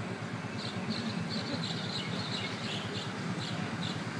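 Short high chirps, likely from a small bird, come in a quick broken run from about half a second in until near the end, over a steady low hum.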